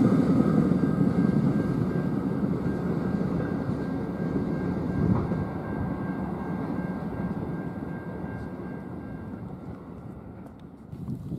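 Rumble of a train that has just passed, fading steadily into the distance, with a faint steady whine that stops near the end.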